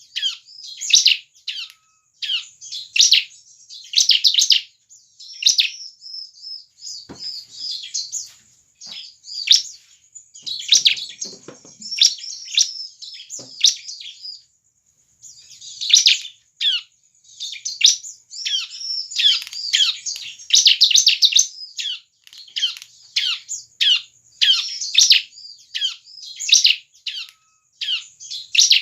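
Bar-winged prinia (ciblek) in full song: a rapid, energetic series of sharp high calls, each dropping quickly in pitch, broken by softer twittering runs and one short pause a little past halfway.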